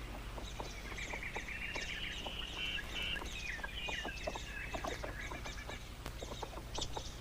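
Birds calling around a water hole: many short sharp calls, with a chattering run of high calls through the middle. A steady low hum runs underneath.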